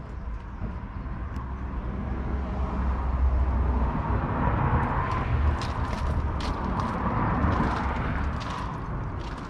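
John Deere 6120M tractor's 4.5-litre four-cylinder diesel engine running with a deep rumble, growing louder toward the middle and then easing off again.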